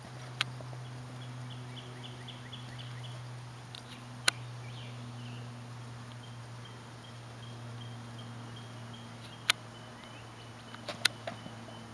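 Open-air ambience over a steady low hum. A bird calls in a quick run of short high notes early on, then holds a thin, steady high whistle through the second half. About four sharp knocks are scattered through it.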